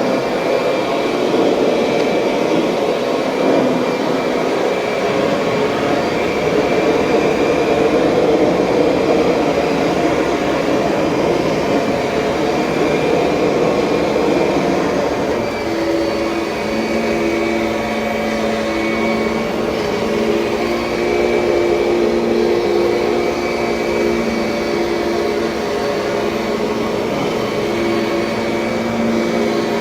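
2007 Kirby Sentria upright vacuum cleaner running steadily. About halfway through, a steady pitched hum comes in over its rushing noise and comes and goes.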